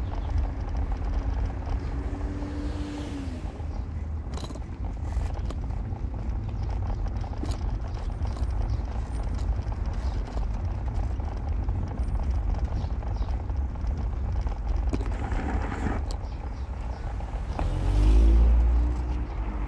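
A car driving on city streets: steady low engine and road rumble throughout. A short engine tone passes a couple of seconds in, and a louder surge of engine noise with rising pitch comes near the end.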